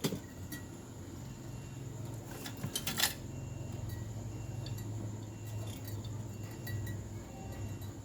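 Small metal objects clinking: a sharp click at the very start and a quick cluster of clatters about three seconds in, with scattered lighter ticks, over a steady low hum.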